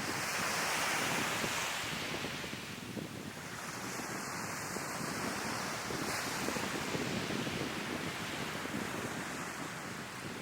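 Sea waves washing onto the shore, one surge swelling in the first two seconds, with wind buffeting the microphone.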